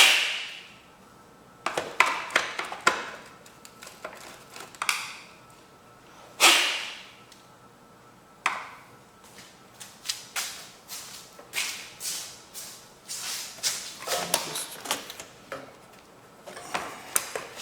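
Tools and metal engine parts being handled while a Briggs & Stratton mower engine is taken apart: irregular clicks, taps and knocks. A louder scraping knock comes at the start and another about six seconds in, and a run of quick clicks follows in the second half.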